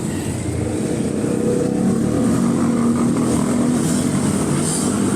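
Motorcycle engine running close by, a steady engine note that grows a little louder about two seconds in.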